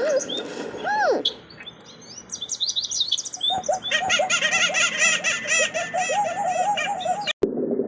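Birds calling: a few single arched calls at first, then from about three and a half seconds in a dense chorus of many birds chirping rapidly over one another, cut off abruptly near the end.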